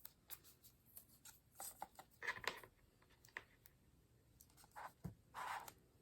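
Glue stick being rubbed onto washi tape: a few short, faint scraping strokes, with light clicks and paper handling between them.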